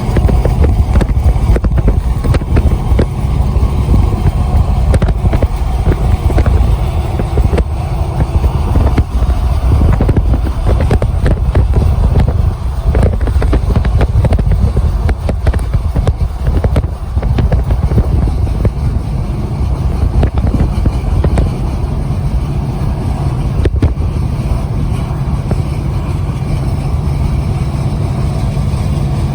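Train passing close by: a steady, heavy low rumble with constant rattling and clicking throughout.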